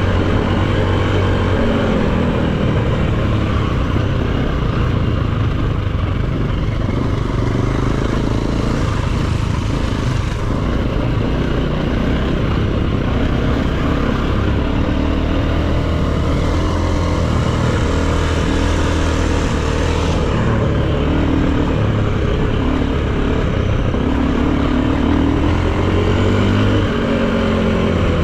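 Dirt bike engine running under way, its revs rising and falling again and again as the throttle is worked.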